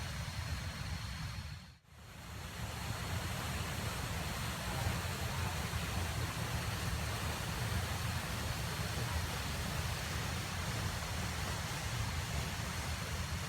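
Steady rush of a waterfall's falling and flowing water, heavy with rainy-season flow. The sound briefly drops out about two seconds in, then returns unchanged.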